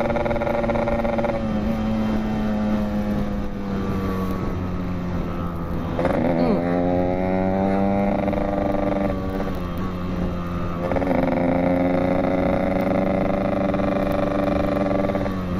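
Yamaha RX-King's two-stroke single-cylinder engine running while the bike is ridden. Its pitch climbs as it pulls and drops back at throttle and gear changes, most clearly about six seconds in and again near eleven seconds.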